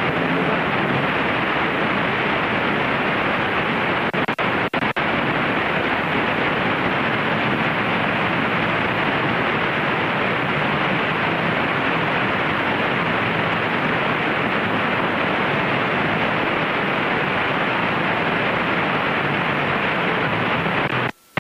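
Steady engine and slipstream noise inside a Mooney light aircraft's cockpit on short final and touchdown in a gusty crosswind, a dense hiss with nothing above about 4 kHz. There are a few momentary dropouts about four to five seconds in, and the noise cuts off abruptly just before the end.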